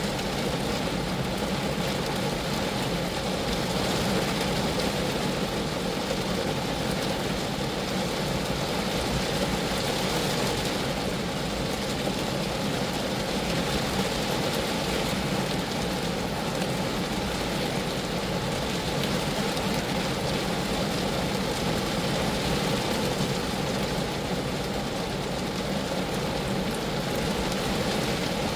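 Steady rain falling on a Geo Metro: a dense, even patter of drops on the car's body that does not let up or change.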